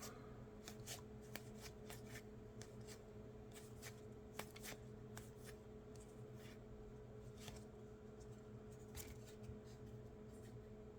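Trading cards being handled and slid past one another, a scatter of faint quick clicks and rustles, over a faint steady hum.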